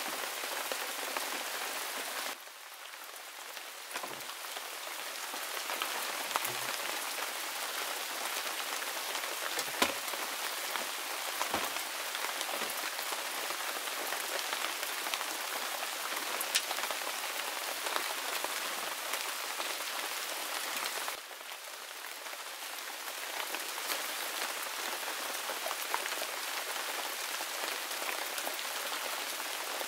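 Steady rain falling, an even hiss with scattered sharper drop ticks. It drops suddenly quieter twice, about two and twenty-one seconds in, and builds back up each time.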